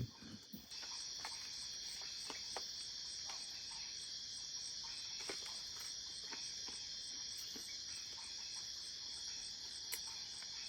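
Night insects chirring in a steady, high, unbroken drone that comes in just under a second in, with a fainter, evenly pulsing call above it. A few faint clicks are scattered through.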